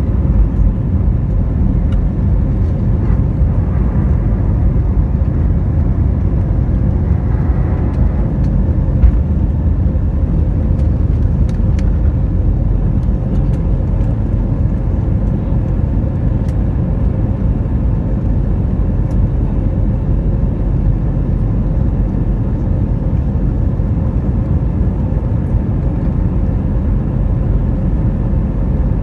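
Airbus A320neo's CFM LEAP-1A turbofan engines at takeoff thrust: a loud, steady low rumble with a faint steady hum above it and occasional faint ticks.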